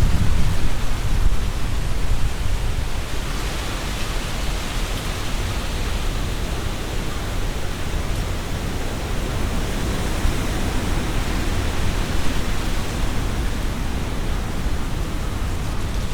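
Strong wind gusting through trees, leaves rustling, with low wind rumble on the binaural microphones. The gust is strongest in the first couple of seconds, then settles to a steady rush.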